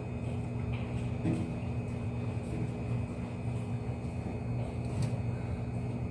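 Inside a JR West 207 series electric commuter train: a steady low hum from the car's equipment with a few faint clicks, with no motor whine rising or falling in pitch.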